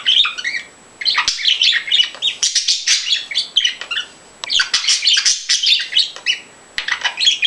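A small pet bird chattering and chirping rapidly in high-pitched runs, breaking off briefly twice.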